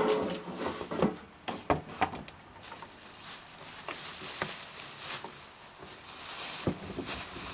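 PVC pipe and hand tools being handled on a workbench: a short rubbing scrape at the start, then scattered irregular knocks and clicks.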